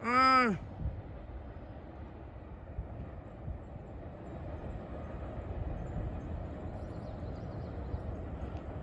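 Steady low rumble of a Norfolk Southern train on the rails, growing a little louder midway. It opens with a short, high voice-like call that rises and falls in pitch.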